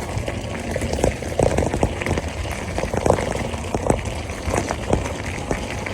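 Mountain bike rolling along a rail trail: a steady rush of tyre noise with frequent small rattles and knocks from the bumpy ride, over a low rumble.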